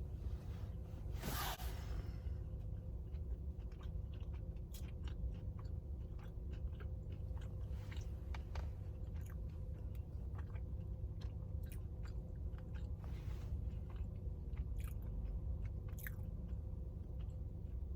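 Close-miked eating of a chicken McGriddle sandwich: a bite about a second in, then chewing with many small wet mouth clicks, over a steady low hum.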